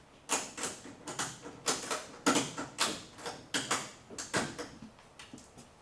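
A run of sharp, irregular mechanical clicks and knocks, about three a second, fading out near the end.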